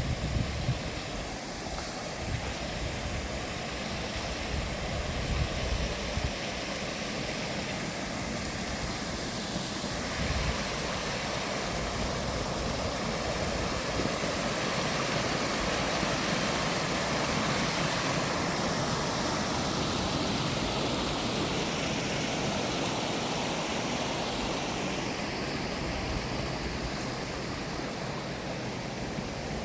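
Steady rush of flowing water, with low wind buffeting on the microphone now and then.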